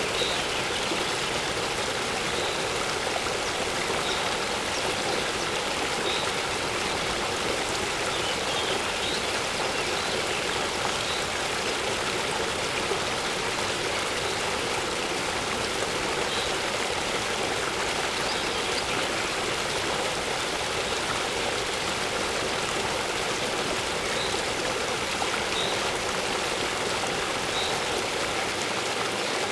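Waterfall running with a steady rush of falling water. Faint short bird chirps come through every second or two.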